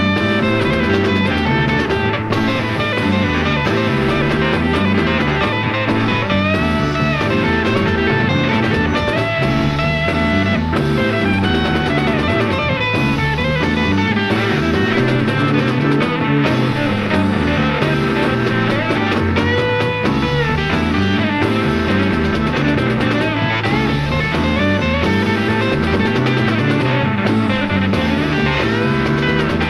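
Rock music with guitar and drums over a bass line that steps up and down, with held, bending tones above it.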